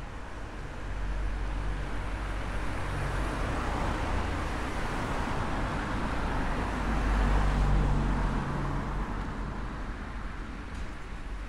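A car driving past on the street: tyre and engine noise builds, is loudest about two-thirds of the way through, then fades.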